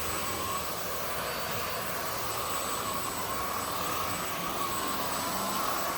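Zoker A10 Pro cordless stick vacuum running steadily, a motor whine that wavers slightly in pitch over a steady rush of airflow.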